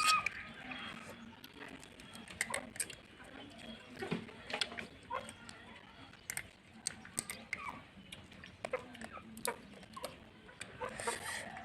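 Scattered sharp clicks and cracks at an irregular pace, as crab shells are broken open and picked at while eating.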